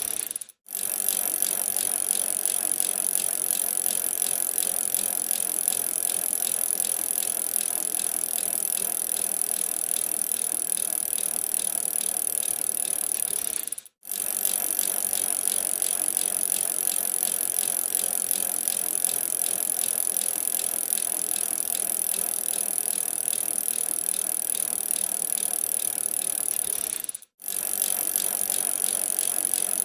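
Bicycle being ridden: a steady mechanical running sound from the bike, cutting out for a split second twice where the recording loops.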